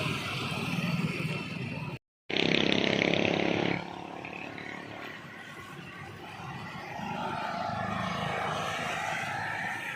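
Street ambience with vehicle traffic. About two seconds in it drops to silence for a moment at a cut, then comes back with a loud passing-vehicle noise for about a second and a half before settling to quieter, uneven background noise.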